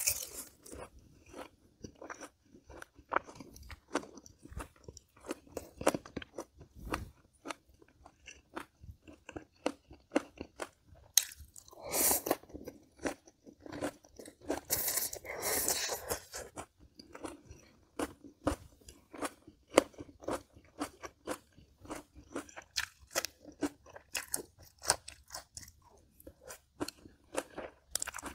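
Close-miked chewing of crisp food, many quick crunches one after another, with louder, longer crunching bites about twelve and fifteen seconds in.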